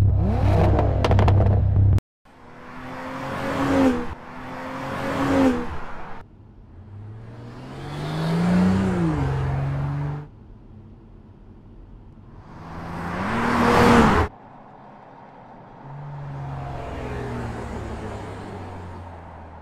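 A short deep-bass intro sting, then the 2022 BMW X3 M40i's turbocharged straight-six accelerating in a string of cut-together runs: each one rises in pitch and swells, and most stop abruptly. A quieter run comes near the end.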